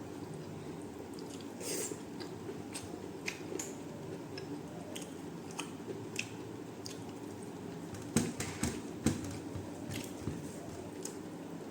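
Person chewing and eating a meal at close range: wet mouth sounds and scattered short clicks and smacks, with a few louder ones about eight to nine seconds in, over a steady low hum.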